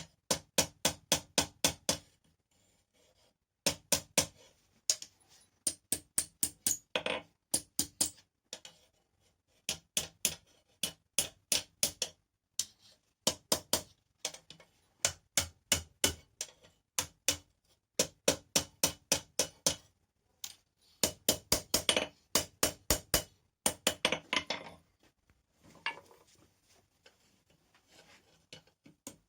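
Hand hammer striking hot rebar on an anvil in quick runs of blows, about four a second, with short pauses between runs. The anvil rings under each blow.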